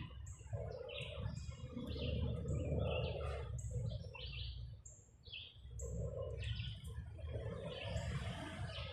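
Small birds chirping: short, high, slightly falling notes about once a second, over a steady low background rumble.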